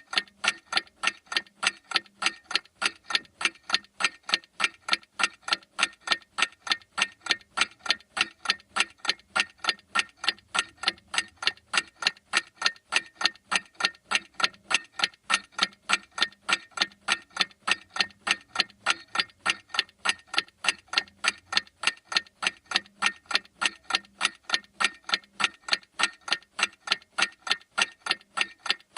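Clock ticking: fast, even ticks, several a second, steady throughout.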